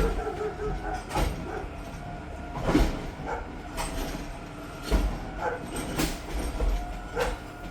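Garbage truck at work: a steady mechanical whine with a series of clanks and bangs, about one a second.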